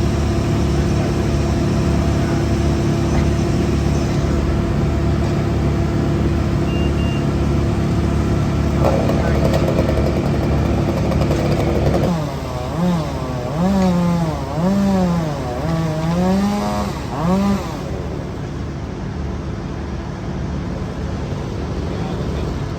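Engines of heavy tree-removal machinery running steadily. For several seconds around the middle, an engine's pitch repeatedly rises and falls.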